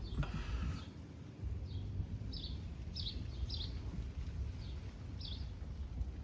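A small bird chirping repeatedly, with short high chirps about once a second over a steady low outdoor rumble. A brief hiss lasting under a second comes at the start.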